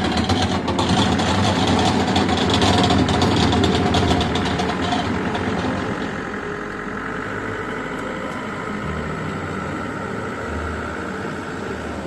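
A heavy vehicle's engine running, louder and rougher for the first few seconds, then settling to a steadier, quieter run about five seconds in.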